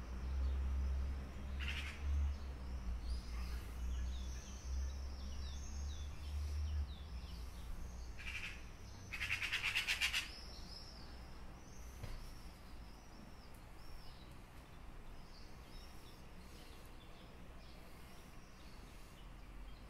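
Garden birds chirping, many short high calls repeated throughout, with a louder rapid rattle about nine seconds in that lasts about a second. A low rumble runs under the first seven seconds.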